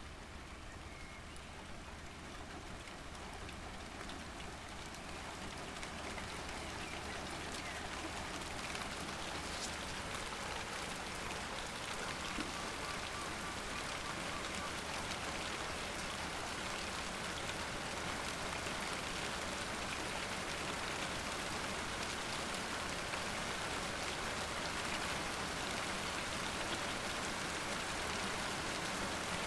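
Rain falling and pattering on surfaces, growing louder over the first several seconds, then holding steady.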